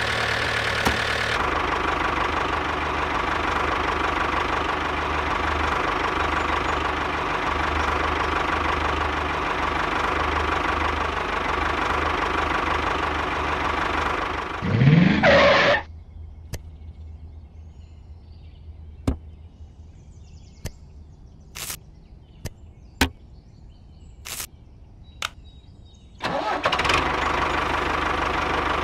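Engine of a miniature model tractor running steadily with a mid-pitched drone. About halfway through it rises in a short sweep and stops. A quieter stretch of scattered sharp clicks and taps follows, and the engine drone starts again near the end.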